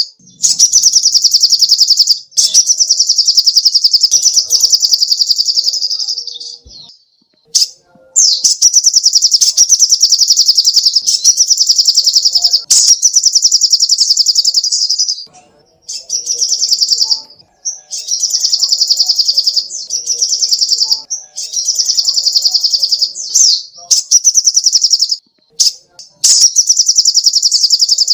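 Little spiderhunter (sogok ontong) calling in long runs of rapid, high, repeated notes, each run lasting one to several seconds with brief pauses between.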